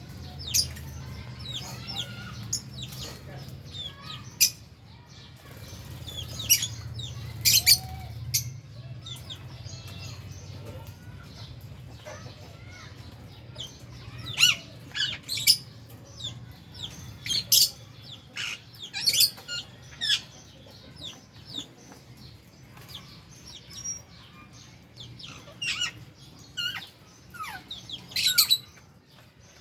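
A flock of lovebirds and budgies in an aviary chirping, with many short, sharp, high calls overlapping. A low steady hum lies under the first third and fades out.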